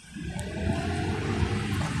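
Electric bus pulling away, its traction motor's whine rising in pitch under a building rush of road and tyre noise.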